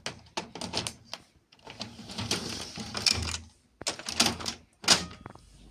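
Canon MF742 laser printer working: an irregular run of mechanical clicks and short whirring, rustling bursts, with no steady squeal.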